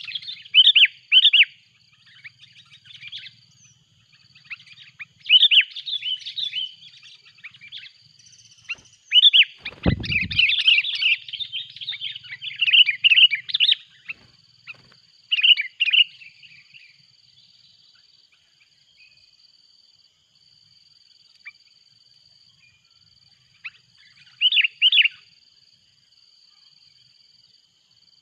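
Sooty-headed bulbuls calling in repeated bursts of quick, chattering notes, busiest between about nine and fourteen seconds in and quieter later. A steady thin high tone runs behind them, and a single low thump sounds about ten seconds in.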